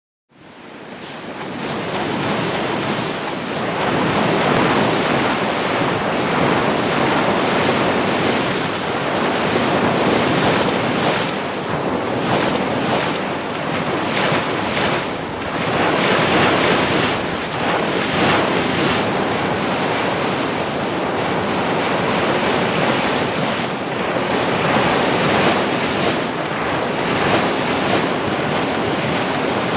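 Ocean surf: a continuous wash of breaking waves that swells and ebbs. It fades up from silence over the first few seconds.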